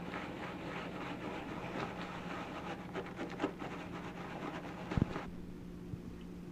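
Marinated cicadas being shaken in a coating of breading, a dense rattling and rustling that stops abruptly after about five seconds with a thump as the container is set down.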